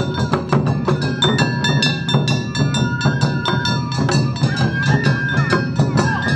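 Awa Odori festival band playing the fast two-beat rhythm: rapid ringing strikes of the kane hand gong over taiko drums, with a shinobue bamboo flute holding and stepping between high notes.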